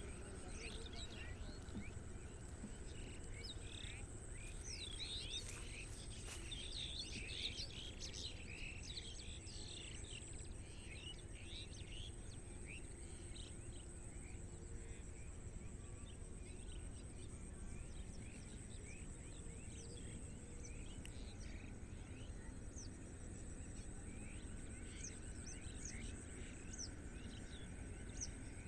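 Many small birds chirping and twittering in quick, overlapping calls, busiest in the first ten seconds and picking up again near the end, over a steady low background rumble.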